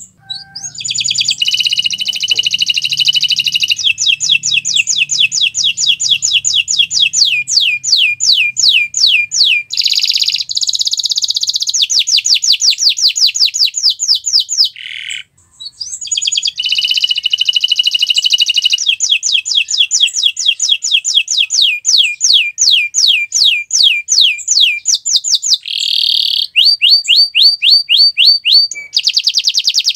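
Domestic canary singing long rolling trills of rapidly repeated high sweeping notes, with a short break about halfway through.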